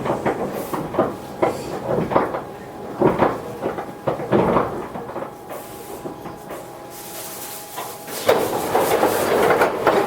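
Toyohashi Railway 1800 series electric train, a former Tokyu car, running with its wheels knocking over rail joints at a slowing, uneven pace, then going quieter under a faint steady tone. About eight seconds in, a loud hiss of air starts.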